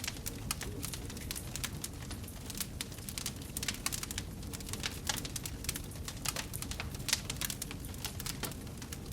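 Wood fire crackling in a fireplace: frequent sharp pops and snaps over a low, steady rumble.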